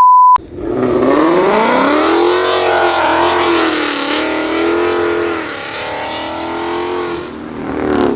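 A short, high, steady beep, then a car engine revving hard through a loud exhaust as the car accelerates. Its pitch climbs over the first couple of seconds, then wavers up and down for about five more seconds before it fades out.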